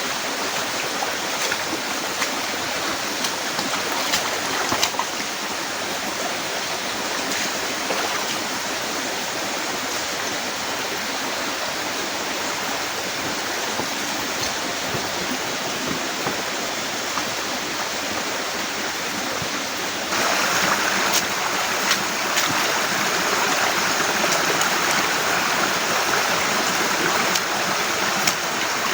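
Heavy rain falling steadily, with scattered sharper taps of drops. It gets louder about two-thirds of the way through.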